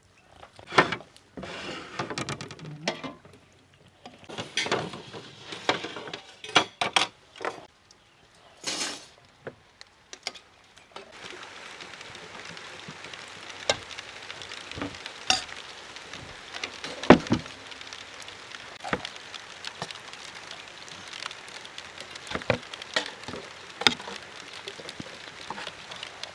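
Pots and utensils clinking and knocking irregularly, then about eleven seconds in a steady hiss of rain sets in, with scattered louder drops and knocks over it.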